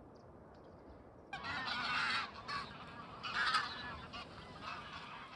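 Geese honking: a flock calling in several overlapping bouts, starting just over a second in after a quiet start.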